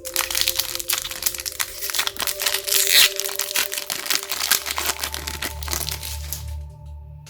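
Plastic Pokémon card packaging crinkling and crackling as it is handled and opened: a dense run of small crackles, loudest around the middle, that stops about six and a half seconds in.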